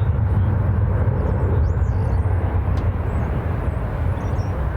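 Jet airliner engines rumbling, a steady deep roar with no break. Faint bird chirps sound high above it a few times.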